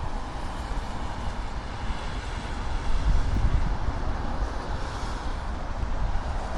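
Wind buffeting the microphone in rain: a steady rushing noise with an uneven, gusty low rumble that swells about three seconds in.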